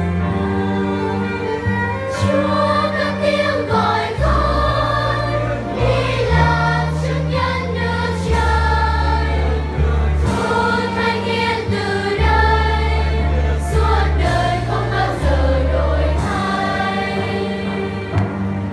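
Children's choir singing a Vietnamese Catholic hymn over sustained low accompaniment notes that change every second or two.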